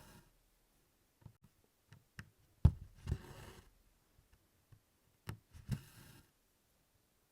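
Needle stitching through 24-count Congress cloth: twice, a sharp tap as the needle pierces the canvas, then a short hiss as the DMC floss is drawn through, about two and a half seconds apart.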